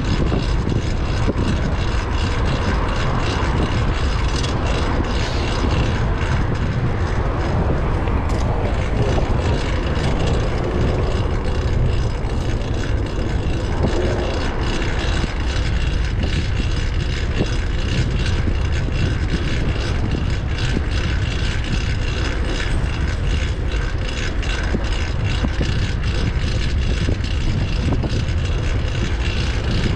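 Steady wind rumble on the microphone while riding a fixed-gear bike, with the bike's loud drivetrain running underneath, noisy from a new cog.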